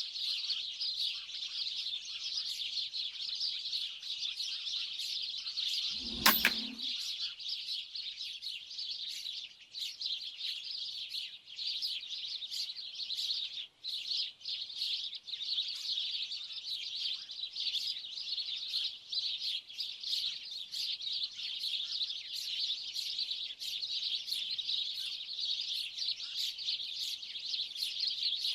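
Dense chorus of many small birds chirping continuously, like a large flock. About six seconds in, one sharp shot from a 4.5 mm air rifle firing a slug cracks out; the chirping carries on unbroken.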